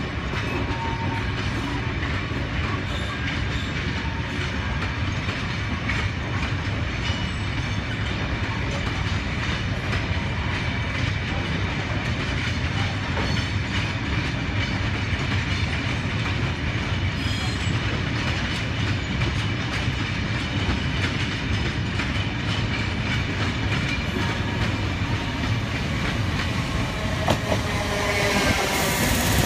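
Steady rumble of a freight train's open wagons running past on the rails, with faint clicks from the wheels. Near the end a Class 317 electric multiple unit comes by close, louder, with a motor whine.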